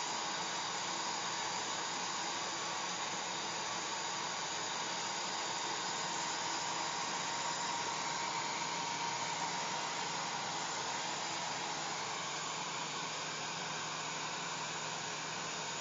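Hair dryer running steadily: a constant airy rush with a faint motor hum underneath.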